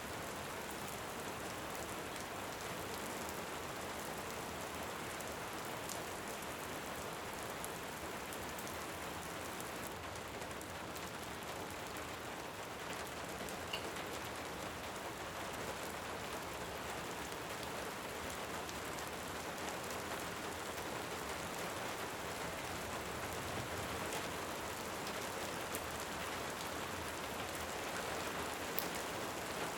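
Steady rain hissing evenly, with a few faint crackles from a wood fire, a sharper pop about halfway through and another near the end.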